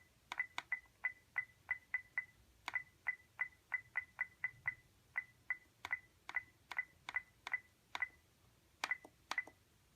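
iRobot Roomba 880 beeping at each press of its scheduling buttons: about thirty short, identical high beeps, each with a click, several a second with two brief pauses, as the schedule time is stepped forward in 15-minute increments.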